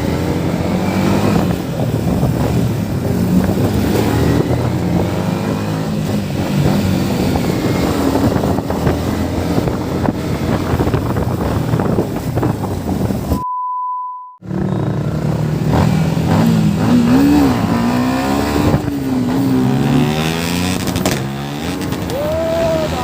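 Motorcycle engine and exhaust running under way, with wind rushing past the microphone; the engine pitch rises and falls in the second half as the throttle is opened and closed. About midway the sound cuts out for about a second, leaving only a steady beep.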